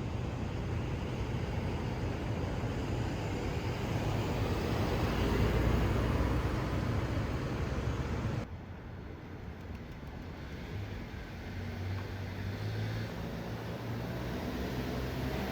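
Steady background noise with a low rumble, the kind heard outdoors or in traffic. It drops suddenly about eight seconds in and then slowly builds again.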